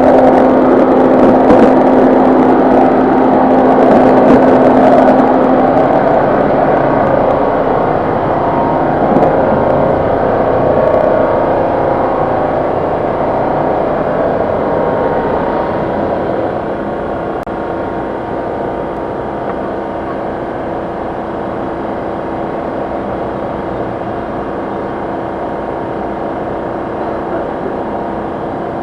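Ford EcoSport running with its air conditioning on: a steady mechanical running noise, with a hum tone in the first six seconds, that grows gradually quieter through the middle and then holds steady.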